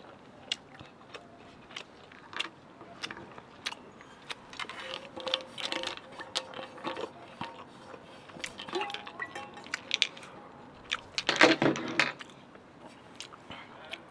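Close-up eating sounds: chewing and wet mouth clicks, with a few short squeaks. About eleven seconds in comes a louder burst of handling noise as a large insulated water bottle is picked up to drink.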